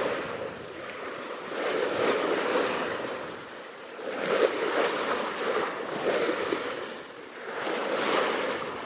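Sea water washing and sloshing around the boat in surges that rise and fall about every two seconds.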